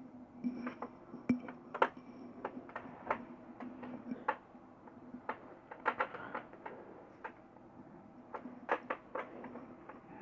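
Irregular light clicks and taps of small electrical parts and wires being handled, over a faint steady hum.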